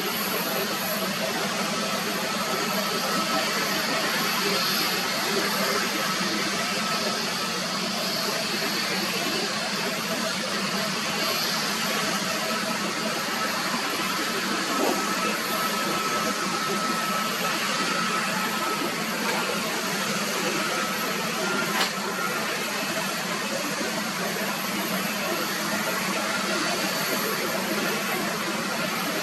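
Jet airliner engines running steadily at a distance: an even rushing hiss with a faint, steady high whine, holding level without building or fading. A single short click sounds about three-quarters of the way through.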